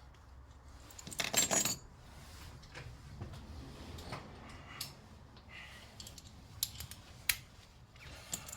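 Small metal parts of battery terminal hardware clinking and rattling as they are handled, with a loudest burst of clinks about a second in and a few separate clicks later.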